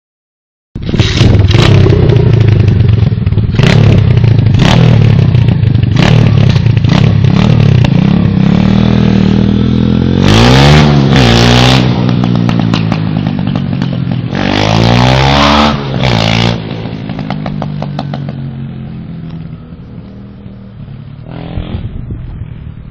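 A 125 cc pit bike's single-cylinder engine running loud, revved up and back down twice near the middle, then fading away steadily. Sharp clattering knocks sound over it in the first several seconds.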